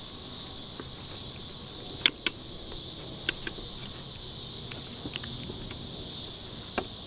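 Steady high insect chorus with a few sharp clicks and taps from handling, the loudest about two seconds in and a couple more near the middle and the end.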